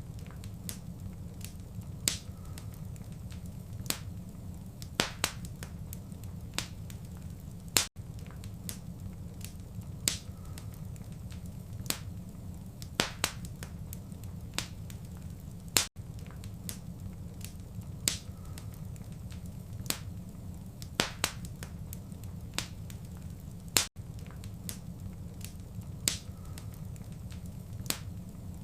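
Wood fire crackling in a fireplace: sharp, irregular pops and snaps over a steady low rumble of flame. The same short stretch of crackles repeats about every eight seconds, with a brief gap at each repeat.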